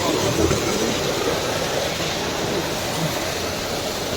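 A steady rushing noise with faint voices murmuring underneath, cutting off abruptly at the end.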